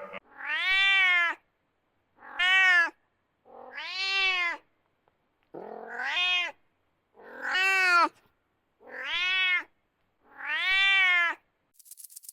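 A cat meowing: seven drawn-out meows, each about a second long, rising then falling in pitch, with short silences between them.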